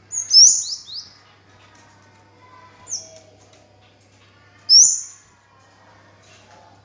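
Kemade (cigen) songbird calling: a quick run of high, downward-sweeping notes at the start, then a short single high note about three seconds in and another high call just before five seconds.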